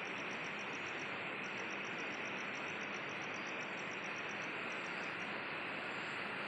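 An insect chirps in a high, even pulse of about seven chirps a second. It breaks off briefly about a second in and stops about five seconds in. A steady rushing noise runs underneath.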